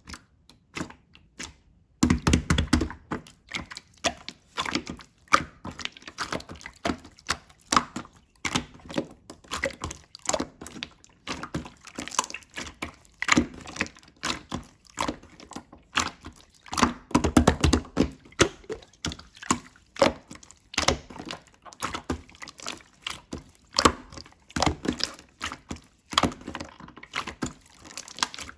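Hands squishing and pressing slime: a dense, irregular run of wet clicks and pops that starts about two seconds in, with heavier squelches now and then.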